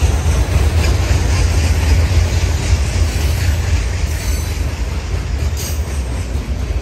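Freight train's open and covered hopper cars rolling past on the track: a steady low rumble of steel wheels on the rails, with faint high wheel squeals now and then.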